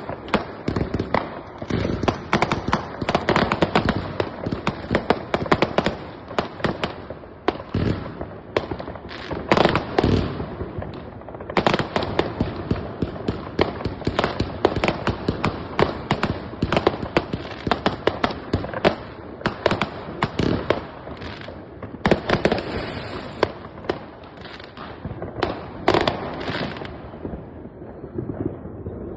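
Fireworks and firecrackers going off in a dense, continuous barrage of sharp bangs and crackles, many per second. The bangs thin out near the end.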